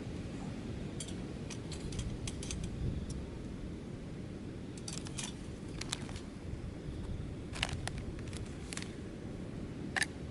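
Steady low rumble of outdoor ambience with scattered small clicks and taps of objects being handled, the sharpest near the end.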